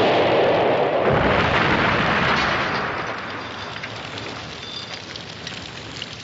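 A loud explosion-like rumble dying away, with scattered crackles as it fades.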